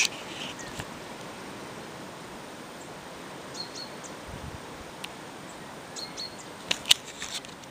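Outdoor countryside ambience: a steady hiss of air, with a small bird chirping briefly a couple of times, and a few sharp clicks near the end.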